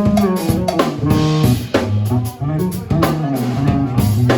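Live band playing an instrumental passage: drum kit hits over a walking bass line, with guitar.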